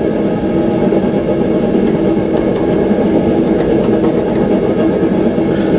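Forge running: a steady, even roar with a constant hum underneath.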